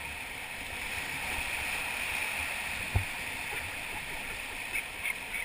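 Steady rush of river whitewater around a drifting raft, with one sharp thump about three seconds in and a couple of small knocks near the end.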